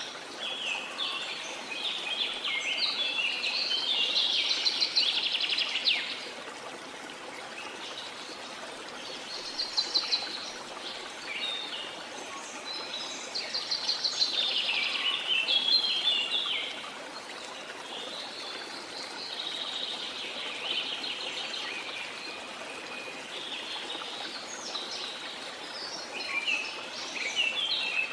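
Songbirds singing in bouts of quick, high chirping phrases every few seconds, over the steady rush of a flowing stream.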